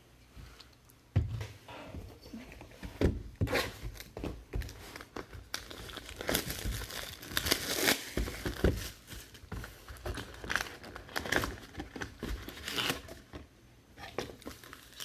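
Trading card pack wrapper being crinkled and torn open by hand: irregular crackling rustle with sharp tearing clicks, busiest in the middle stretch.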